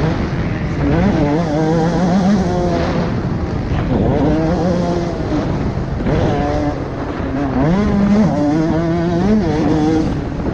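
A 125 cc two-stroke dirt bike engine revving hard and easing off, its pitch climbing and dropping back several times as the throttle is worked round the track.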